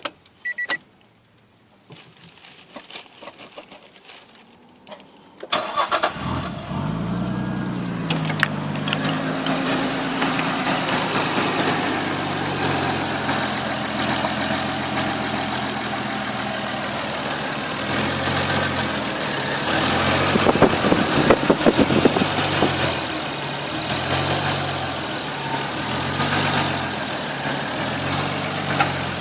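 Nissan Laurel C35's RB25 straight-six being started: a few quiet clicks, then about five seconds in it catches, flares briefly in revs and settles into a steady idle. Later the idle note pulses up and down about once a second.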